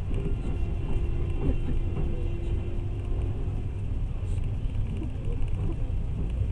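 Passenger train running, heard from inside the carriage: a steady low rumble of the wheels on the rails. A faint steady hum fades out about four seconds in.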